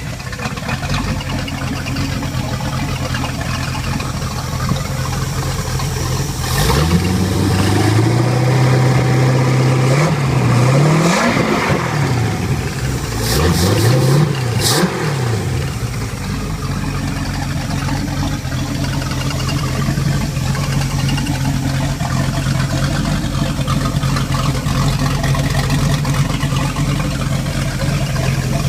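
Chevrolet 454 (7.4 L) big-block V8 marine engine running just after starting: it idles, is revved up and held, blipped up and down three times around the middle, then settles back to a steady idle for the second half. It runs smooth, with no knocks or valve ticks.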